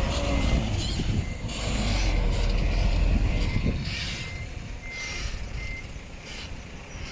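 Backup alarm on heavy earthmoving equipment beeping in short, high tones while a diesel engine rumbles under it. The engine is loudest in the first few seconds and then eases off.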